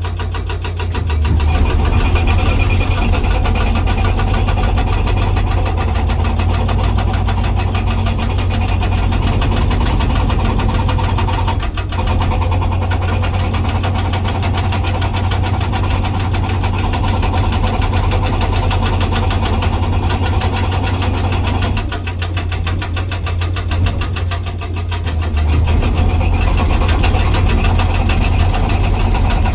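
Hydraulic rock breaker on a Komatsu PC200 excavator hammering hard rock in rapid, steady blows over the excavator's diesel engine drone, with a few brief pauses.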